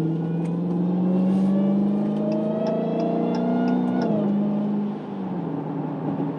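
Dodge Challenger SRT Hellcat Redeye's supercharged 6.2-litre V8 pulling under acceleration, its pitch climbing steadily for about four seconds, dropping sharply with an upshift, then sinking and getting quieter as the throttle is lifted.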